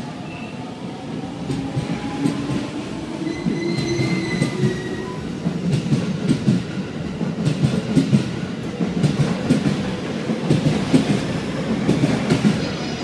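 Electric commuter train pulling out along the platform and picking up speed, its wheels clacking over the rail joints with a rumble that grows louder. A few brief high squeals come about four seconds in.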